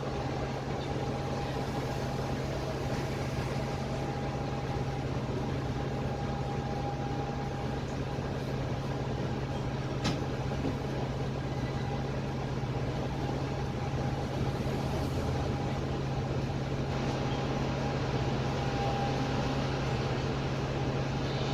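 Interior noise of a Dennis Trident double-decker bus with a Cummins ISMe diesel engine, heard from the lower deck: a steady engine hum with a thin steady whine over it. A single sharp click about ten seconds in, and the noise grows slightly louder a few seconds later.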